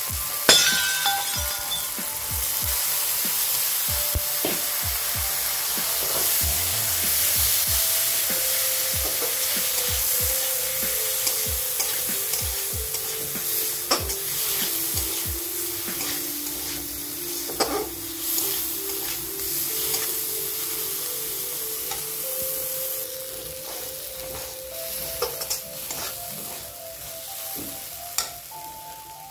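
Onions, tomatoes and yellow split mung dal sizzling in oil in a metal kadai, stirred and scraped with a metal spatula in repeated clicks and scrapes. A simple melody plays faintly underneath.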